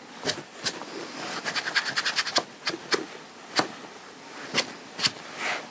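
Hands handling fabric and small sewing materials: irregular light clicks and rustles, with a quick cluster about a second and a half in.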